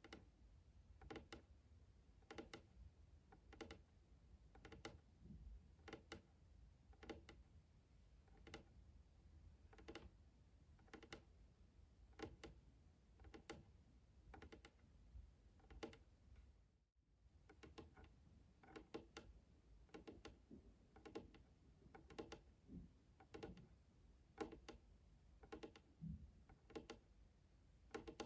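Soft, evenly paced ASMR taps, about two a second, with a brief break about halfway through.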